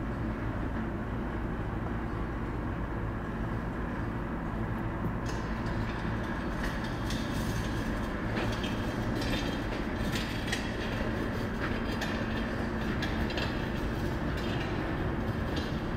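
A V8 engine swapped into a 1993 BMW 325is E36 idling steadily, with faint scattered ticks over it from about five seconds in.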